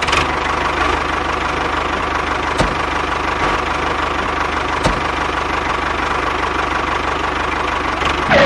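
Tractor engine running steadily at a constant speed, with a fast even chugging pulse. Two short sharp knocks come about two and a half seconds and five seconds in.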